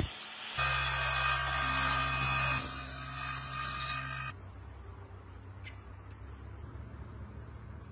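A small motor-driven machine runs with a steady hum and high whine, then cuts off about four seconds in, leaving a quieter low hum.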